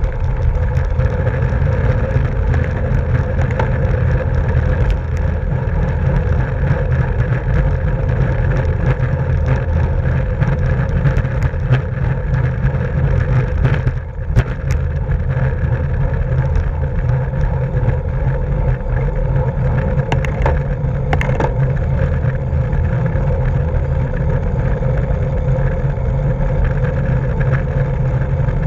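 Steady low rush of wind and road noise from a racing bicycle moving at speed, with a sharp click about fourteen seconds in and a few fainter clicks around twenty seconds.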